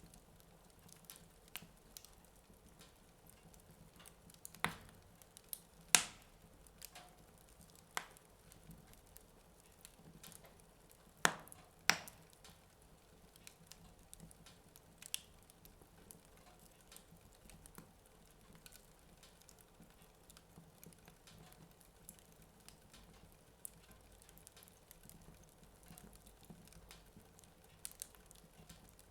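Wood fire burning in a fireplace, crackling quietly with scattered sharp pops, the loudest about 6 and 12 seconds in.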